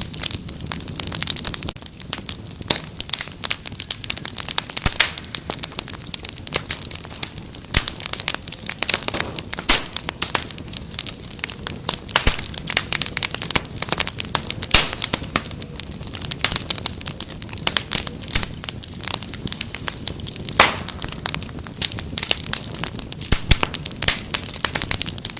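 Wood fire crackling steadily: many sharp, irregular pops and snaps over a soft low rumble of burning.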